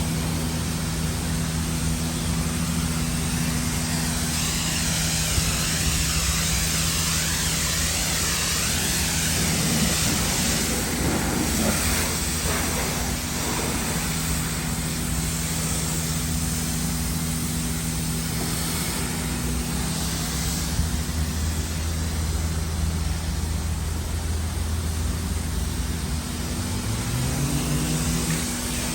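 Car-wash pressure washer running with a steady machine hum, its water spray hissing louder at times; a short rising whine near the end.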